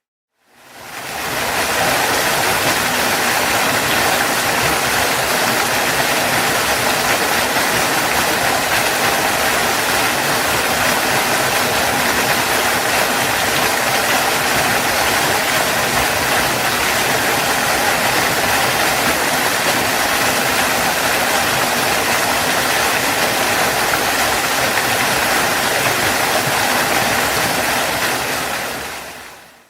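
Waterfall: a steady rush of falling water that fades in from silence at the start and fades out again near the end.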